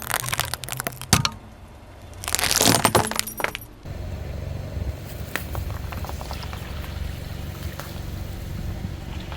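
A car tyre rolling over and crushing brittle objects: two bouts of dense crackling and crunching. About four seconds in, this gives way to the car's engine running steadily, with a few small scattered crackles.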